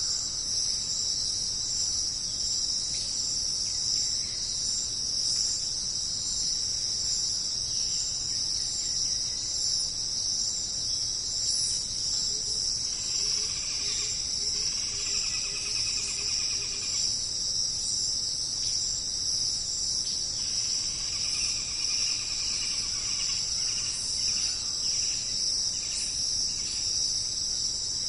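A steady, shrill chorus of jungle insects. Other animals' trilling calls rise over it about halfway through and again later, with a short run of low, evenly repeated notes in the middle.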